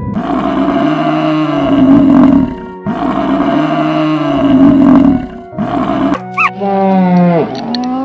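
African buffalo bellowing twice, two long, low calls of the same shape whose pitch rises and falls. About six seconds in, a different lowing call follows, its pitch sliding down and then arching up, over background music.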